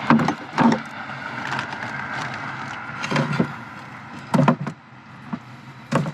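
Canned goods being handled and set down in a blessing box: a series of separate clunks and knocks a second or so apart.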